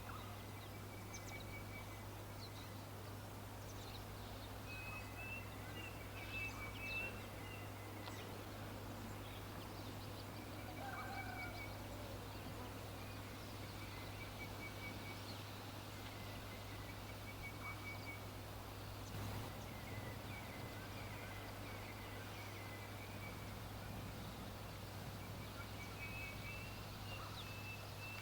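Birds singing: short, rapid trills of high notes repeated every few seconds, with a few scattered chirps, over a steady low hum.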